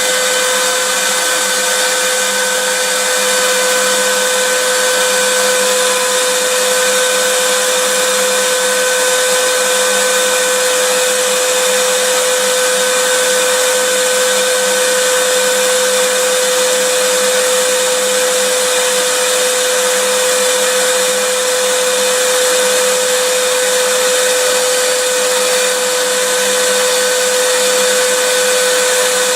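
Vacuum cleaner running continuously at a steady speed: a loud, even rush of air with a steady motor whine.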